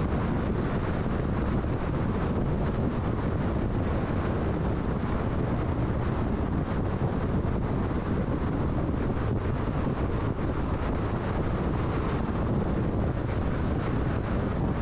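Steady road and wind noise of a car cruising at freeway speed: tyre rumble and rushing air, even throughout with no changes.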